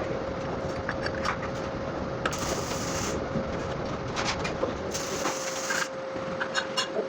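CNC press brake running: a steady mid-pitched whine under a constant machine noise, with short bursts of hiss every two to three seconds and scattered light clicks.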